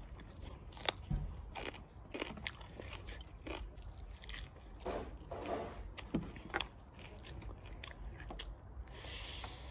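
Close-up eating sounds of a person chewing mouthfuls of rice and curry eaten by hand, with irregular sharp clicks and crunchy bites.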